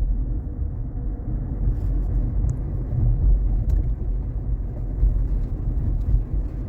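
Steady low rumble of road and tyre noise inside the cabin of a moving Waymo self-driving car.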